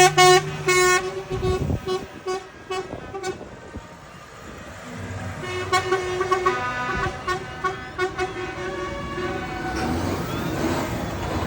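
Vehicle horns on the passing tractors tooting in strings of short, high-pitched blasts, over the low rumble of diesel engines.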